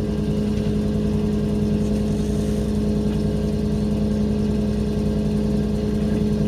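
A sailing yacht's two engines running steadily at low motoring speed, one even, unchanging drone.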